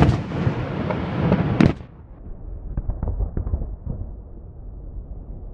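Fireworks going off: loud dense crackling with sharp bangs at the start and about a second and a half in, then it drops off suddenly to a few fainter, lower booms.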